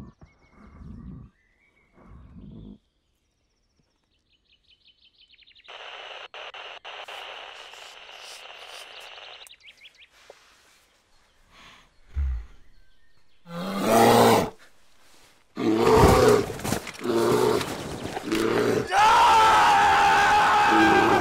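Loud, harsh animal roars and growls that rise and fall in pitch, starting about two thirds of the way in: a bear attacking. Before them there is only a stretch of faint hiss.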